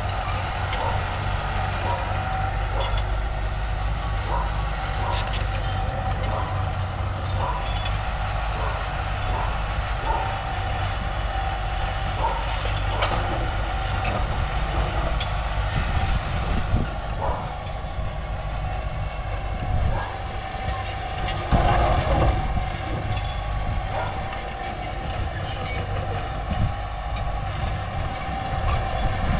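Heavy diesel machinery running steadily, with a light metallic clank about once a second through the first half and a louder surge about three quarters of the way through.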